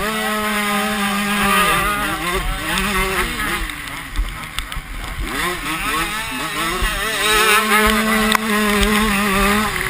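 Several motocross bikes running on the track, their engines revving up and down through the gears, louder at the start and again near the end with a dip in between. A low wind rumble sits underneath.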